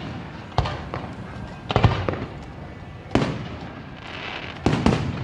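Aerial firework shells bursting overhead: about six booms, each trailing a brief rumble, some coming in quick pairs.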